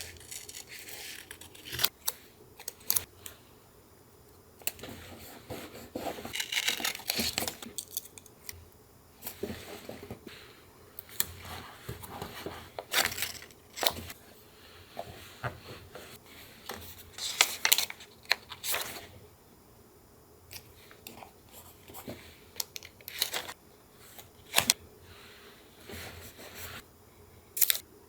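Paper handled in collage work: rustling, tearing and crinkling, broken by irregular sharp clicks and taps.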